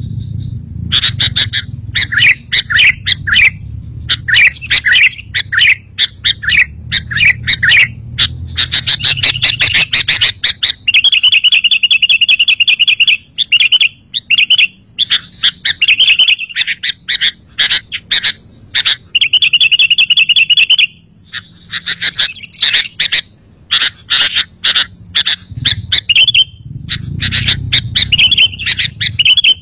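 Sooty-headed bulbul (kutilang) singing loudly: a dense run of chirps and short whistled phrases, broken twice near the middle by bursts of fast trilling. A low rumble sits under the song at the start and again near the end.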